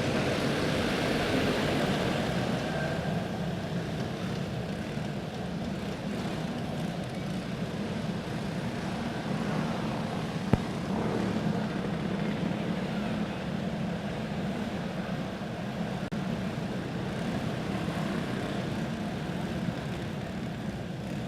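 A pack of racing karts with single-cylinder four-stroke clone engines running together at speed, a steady drone that eases slightly as the field pulls away. A single sharp click about ten and a half seconds in.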